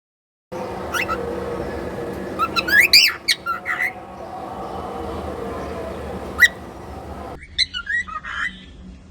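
Cockatiel calling: short rising chirps and whistles, with one sharp call about six seconds in, over steady room noise with a low hum. Near the end the background drops away abruptly and softer, quicker chirps follow.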